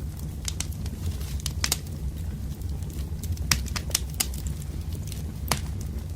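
Wood fire crackling: irregular sharp pops and snaps from burning logs over a steady low rumble of the flames, with louder snaps about three and a half and five and a half seconds in.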